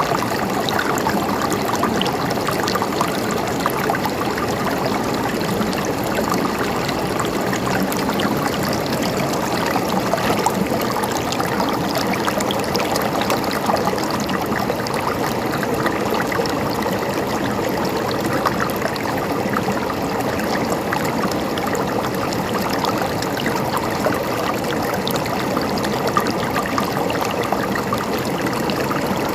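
Flowing water gurgling and trickling steadily, a constant rush dotted with many small splashes.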